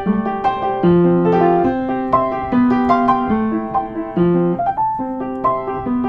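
Recorded solo piano playing the song's intro: chords and notes struck in a steady, bouncing pattern, with no singing yet.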